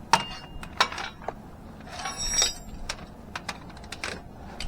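Irregular clicks and knocks of hand work on a loosened oxygen sensor and its wiring, with a brief metallic clink about two seconds in.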